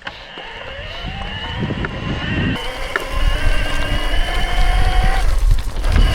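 Bicycle tyres humming on the ground, the hum rising in pitch and growing louder as the bike picks up speed, with wind rumbling on the microphone.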